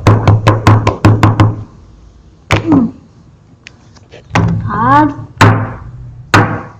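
A fast run of sharp knocks, about five a second, in the opening second and a half. A few single hits follow, one of them with a short squeal that rises and falls.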